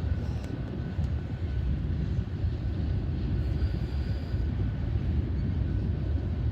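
Train cars rolling past on the track with a steady low rumble and a faint thin high tone above it; it sounds as if the train is slowing to a stop.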